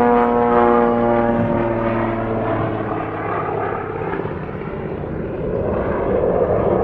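Propeller airplane engine passing in flight: its steady pitched tone fades over the first two or three seconds, and a rushing engine noise swells again near the end.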